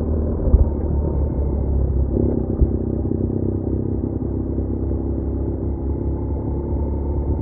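BMW R1200R boxer-twin motorcycle running steadily on the road, its engine hum mixed with road noise. Two brief thumps come about half a second and two and a half seconds in.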